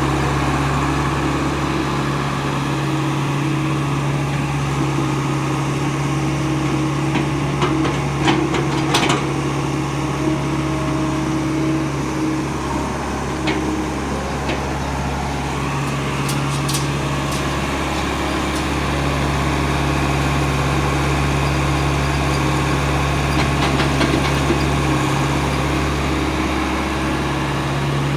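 Diesel engine of heavy machinery running steadily, with a few short metallic clicks and knocks about a third of the way in and again near the middle.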